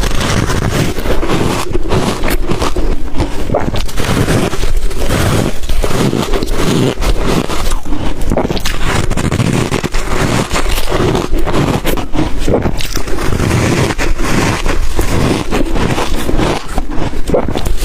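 Close-miked biting and crunching of ice coated in matcha and milk powder: a dense, continuous run of crackly crunches.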